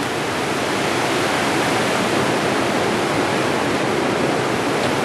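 Hurricane Irene's winds blowing steadily, a loud, even rushing noise.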